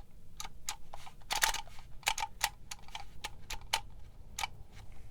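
Handheld embossing label maker clicking as its letter wheel is turned to the next letter: a string of sharp, irregular plastic clicks, with a quick flurry about a second and a half in.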